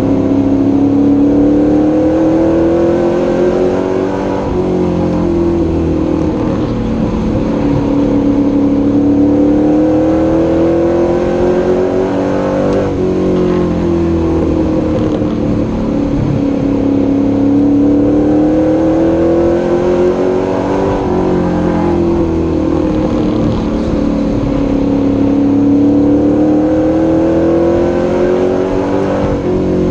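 Superstock pro truck's engine heard from inside the cab under racing, its pitch climbing steadily for several seconds and then dropping back, four times over, as it accelerates down each straight and lifts for each turn of the oval.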